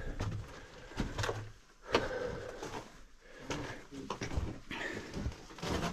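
Scattered light knocks and scrapes, with brief faint voices, in a mine tunnel.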